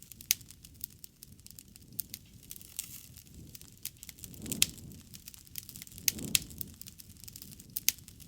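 Wood fire crackling: sharp, irregular pops and snaps throughout, with a soft low rush of flame swelling up about four and a half and six seconds in.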